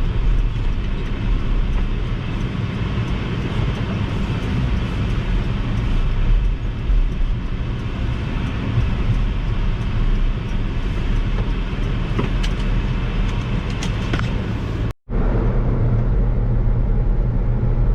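Supercharged Subaru Sambar kei truck's 660 cc four-cylinder engine running while driving, with road and tyre noise. The sound cuts out for an instant about 15 seconds in and resumes on another stretch of driving with a steadier engine note.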